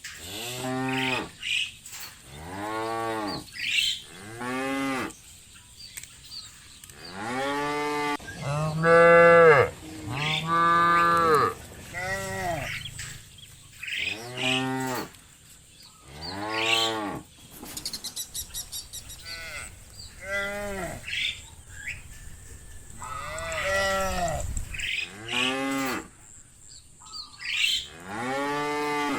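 A herd of cattle mooing, one call after another, about a dozen calls in all. Each moo lasts about a second and rises and then falls in pitch, and some calls overlap.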